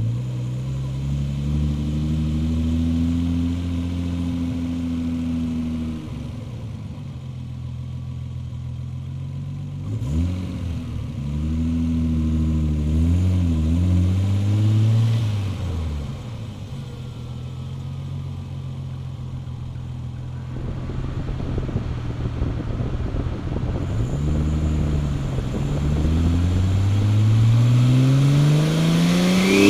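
Turbocharged 1994 Toyota Supra engine, fitted with a Precision GT42R turbo, running at low revs. It is blipped up and down a few times about ten seconds in, settles back, and then its revs climb steadily over the last few seconds.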